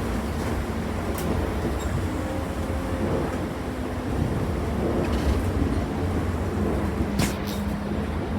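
Cabin noise inside a moving city bus: a steady low rumble of engine and road, with a faint hum that shifts in pitch. A few light clicks come through, the strongest about seven seconds in.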